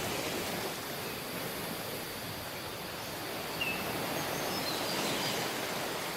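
Tropical beach ambience: a steady wash of surf, with a few faint high chirps between about three and five seconds in.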